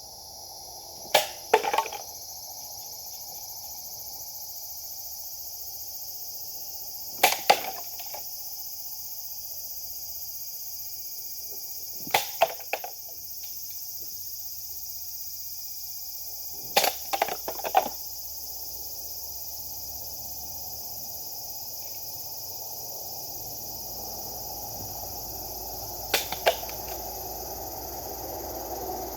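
Japanese sword cutting strokes: five bouts of sharp cracks, each two or three quick strikes in under a second, spaced several seconds apart.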